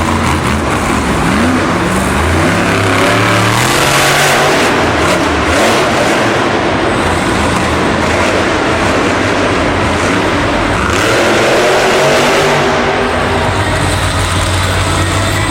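Monster truck's supercharged V8 engine revving hard, its pitch climbing and dropping several times over a dense wash of noise.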